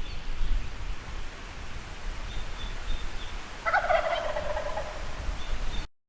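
Wild turkey gobbler gobbling once, a short loud call a little past halfway, over a steady low rumble; the sound cuts off suddenly near the end.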